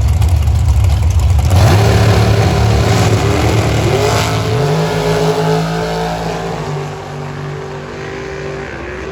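Drag car's engine at full throttle accelerating down the strip, its pitch climbing through a gear change about a second and a half in and another about four and a half seconds in. It then fades as the car pulls away.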